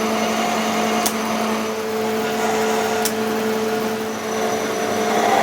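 A machine's motor running at a steady, even hum, with two sharp clicks about one and three seconds in.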